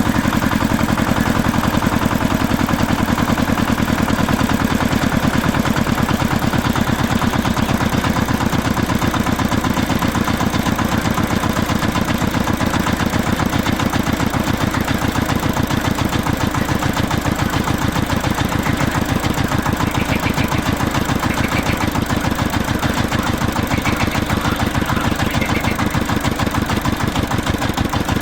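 Tractor-style engine idling steadily with a fast, even chug.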